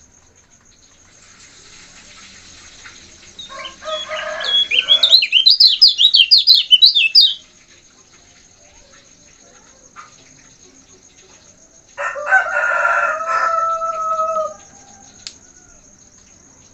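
A kecial kuning, a white-eye, sings a loud, fast run of short falling whistled notes for about four seconds. About twelve seconds in, a rooster crows, ending on a held note. A thin, high, steady insect trill runs underneath.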